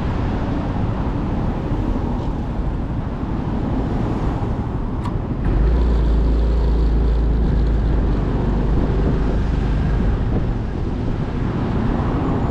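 Motorcycle riding on a road, with the engine running under wind and road noise. A much stronger deep rumble comes in about halfway through and lasts about five seconds.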